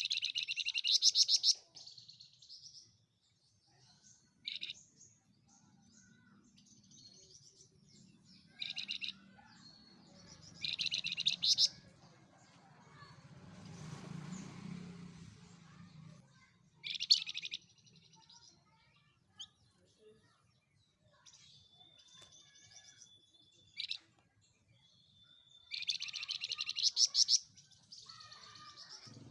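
Flamboyan songbird singing: loud bursts of fast, rapidly repeated high notes (right at the start, about 9 and 11 seconds in, at 17 s and again around 26–27 s) with short chirps between them, and a thin held whistle a little past 21 seconds.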